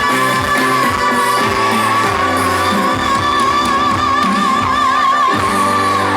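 A female singer holds one long final note with widening vibrato over a Korean pop band track with a steady drum beat; the note ends near the end.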